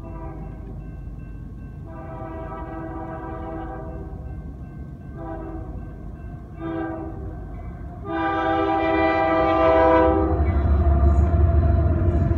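Locomotive air horn sounding the grade-crossing signal as a train approaches: long, long, short, long, the last blast the loudest. As the horn ends, the locomotive's deep rumble swells loudly as it passes close by.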